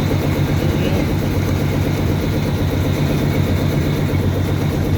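A vehicle's engine running steadily with a low drone while driving, heard from inside the cab.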